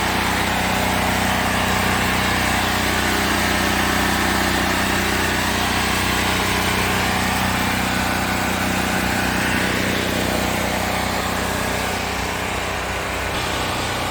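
A generator's small engine running at a steady speed and holding an even drone.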